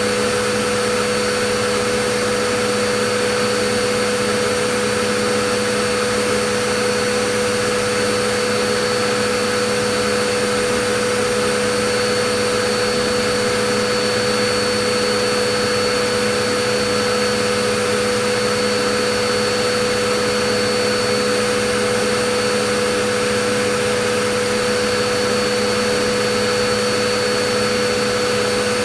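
Vacuum cleaner motor running steadily: a constant rushing hiss with a steady whine, no change in speed or pitch.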